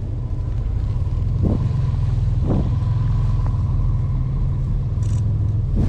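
Motor vehicle running close by: a steady low rumble of traffic.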